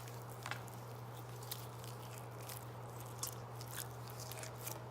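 Homemade glue-and-borax slime squished and worked in the hands, giving faint, scattered sticky clicks and crackles over a steady low hum.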